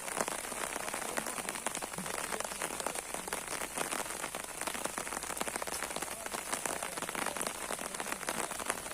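Steady rain with a dense run of small, quick hits.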